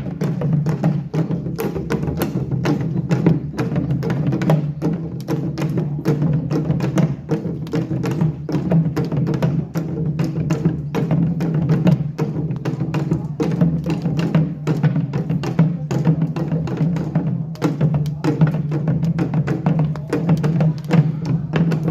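Korean pungmul percussion ensemble playing: a dense, fast stream of drum and small-gong strikes over a steady low ringing tone.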